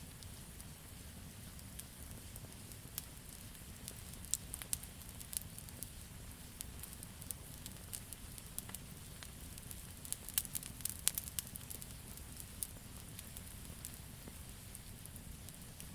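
Wood campfire crackling: scattered sharp pops and snaps over a low, steady rumble of burning, with flurries of pops about four seconds in and again about ten seconds in.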